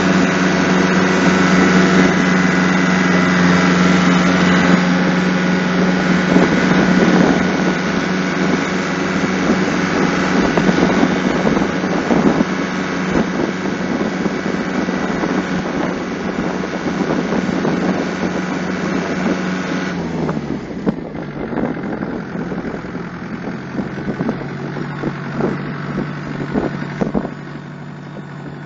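Kubota tractor engine running at a steady speed, then throttled down about 20 seconds in to a lower, slower idle. Irregular rattling knocks run through the sound.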